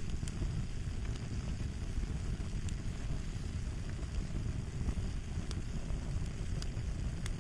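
Fire crackling: a steady low rumble of flames with scattered small pops and snaps.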